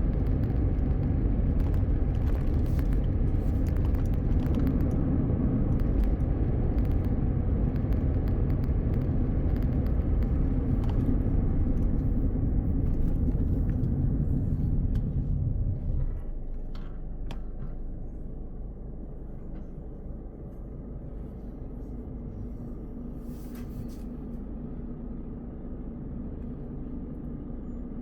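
A car driving on the highway, with a steady low road and tyre rumble. About 16 seconds in it drops to a noticeably quieter level.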